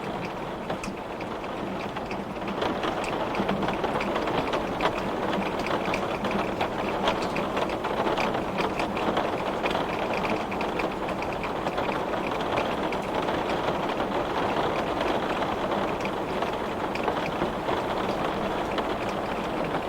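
Heavy rain pelting a glass pane: a dense, steady patter of drops with many fine individual ticks, picking up a little a couple of seconds in.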